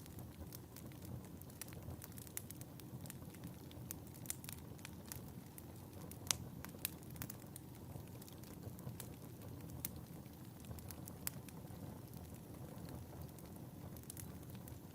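Wood fire burning in a fireplace: a low steady rumble of the flames with frequent irregular crackles and snaps, the sharpest pop about six seconds in.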